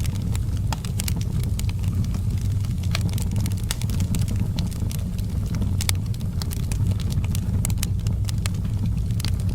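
Fire in a fireplace crackling: frequent irregular sharp snaps and pops over a steady low rumble.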